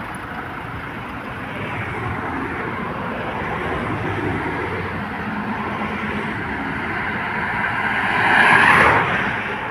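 A vehicle driving, with steady road and tyre noise that grows louder toward the end.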